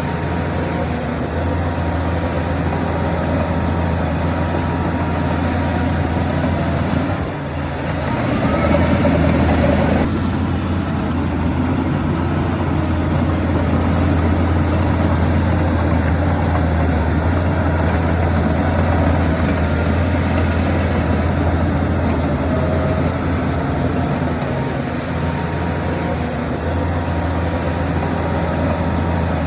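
Heavy diesel engine of earthmoving machinery running steadily under load with a deep, continuous hum. About seven seconds in it eases briefly, then rises in pitch and loudness for a couple of seconds before settling back.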